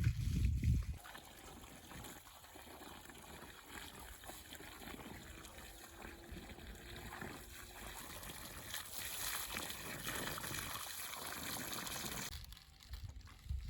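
A stream of water trickling steadily, a little louder over its last few seconds, then stopping abruptly near the end. A few low thumps in the first second.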